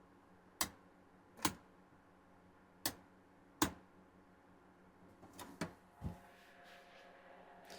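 A mains switch clicked off and on several times, four sharp clicks in two pairs and then a few softer ones near the end, power-cycling an LED ceiling light to step it through its light modes.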